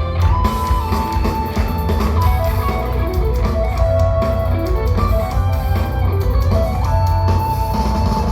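Progressive metal band playing live and loud: electric guitar and bass over drums, with a lead line of held notes that slide between pitches.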